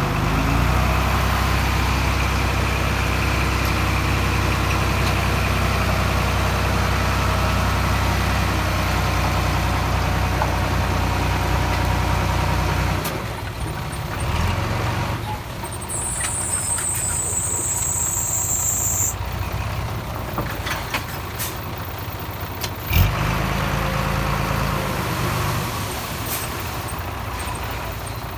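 Diesel engine of heavy earthmoving machinery running steadily, dropping off about halfway through. A brief high hiss follows a few seconds later, and a single sharp knock comes near the end.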